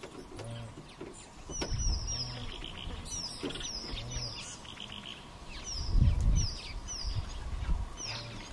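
Birds chirping: short, high, downward-sliding chirps repeated in quick runs, over low rumbles that swell about two and six seconds in.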